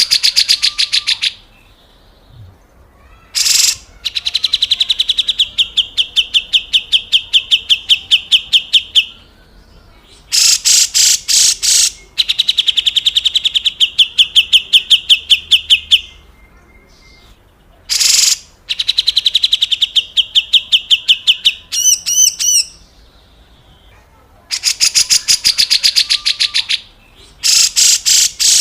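Cucak jenggot (grey-cheeked bulbul) giving its harsh, rasping 'besetan kasar' calls: repeated runs of rough, buzzy notes at about five a second. Each run lasts one to five seconds, with short pauses between runs. About three-quarters of the way through comes one brief run of clearer, ringing notes.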